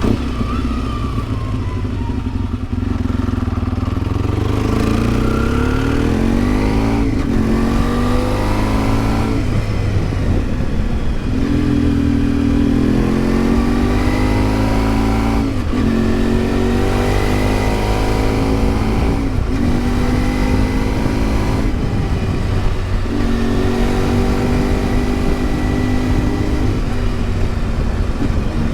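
1992 Yamaha XTZ 750 Super Ténéré's parallel-twin engine under way, its revs climbing and then dropping sharply over and over, every two to four seconds, as it works up and down through the gears, holding steady for a couple of seconds now and then.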